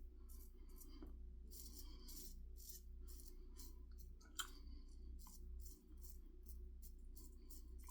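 Shavette razor blade scraping through stubble on lathered skin in a quick series of short, light strokes, each a brief crisp rasp of hairs being cut, about two to three a second. A faint steady hum sits underneath.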